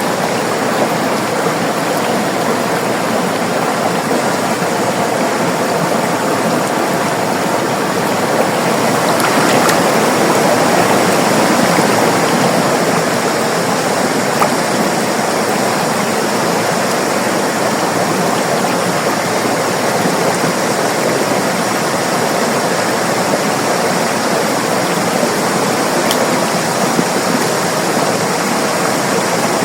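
River water rushing and splashing over rocks, a steady dense flow that swells slightly about a third of the way in.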